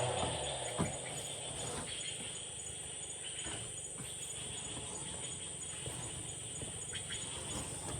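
Quiet outdoor ambience with a high insect chirp repeating a few times a second, and a few faint knocks.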